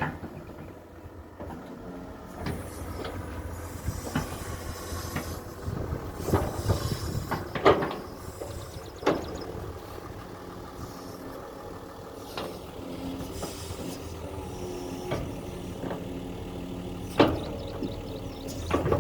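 Excavator's diesel engine running steadily, with a scattering of sharp metallic knocks and clanks, the loudest about eight seconds in and again near the end.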